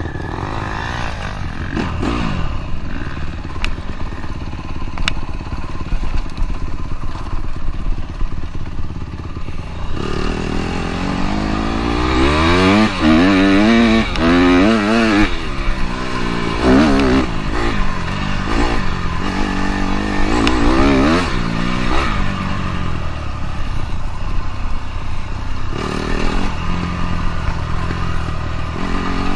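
Dirt bike engine running under riding, steady at first, then revving up and down over and over through the middle stretch before settling again near the end.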